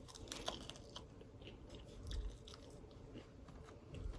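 A person chewing and biting crispy fried food close to the microphone: faint, irregular crunches and mouth clicks.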